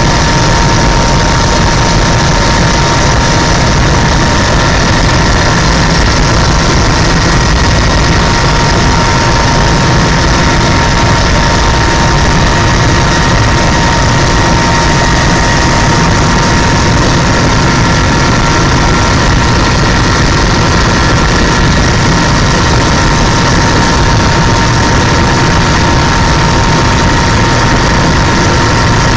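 Helicopter in flight: loud, steady engine and rotor noise with a constant high whine.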